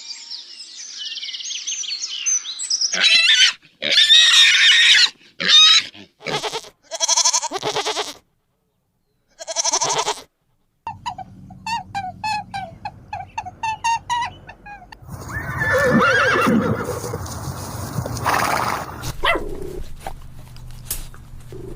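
A series of different animal calls, one after another: high warbling calls at first, then short separate calls, a run of quick repeated calls, and a louder, lower call in the second half.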